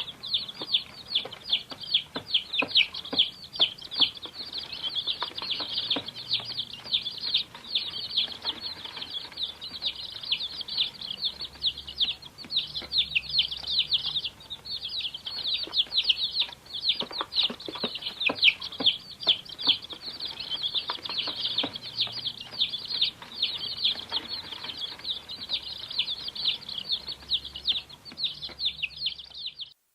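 A brood of chicks peeping nonstop, many short high cheeps overlapping one another, cutting off abruptly at the end.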